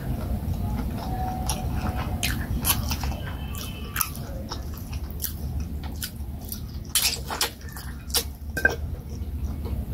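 Close-up mouth sounds of a person eating vegetable soup and fufu by hand: wet chewing with irregular smacks and clicks. Near the end come sharper, louder clicks as she bites into a cooked turkey wing.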